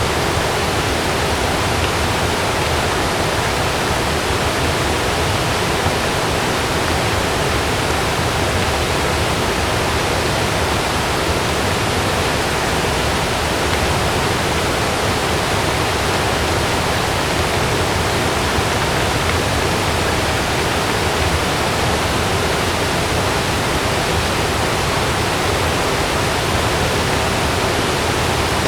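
Heavy rain falling steadily on a camping tent, an even rushing hiss with no thunder.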